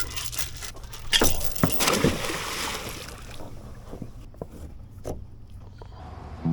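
A boat engine idling with a steady low hum, with a cluster of short splashy water noises about a second in.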